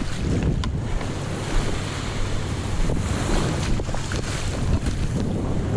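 Wind buffeting the microphone over the steady wash of waves and surf, with a few faint knocks.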